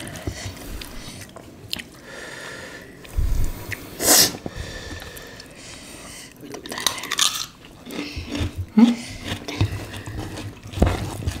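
Close-miked eating by hand: chewing and biting on rice and squid in sambal, with scattered short mouth and hand noises and a sharp hiss about four seconds in.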